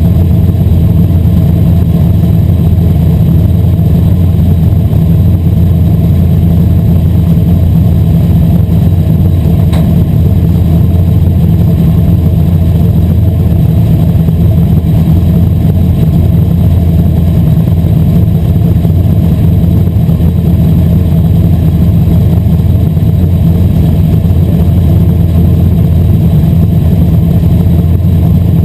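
Asphalt modified race car's V8 engine running hard through a race, a loud, steady drone with little change in pitch.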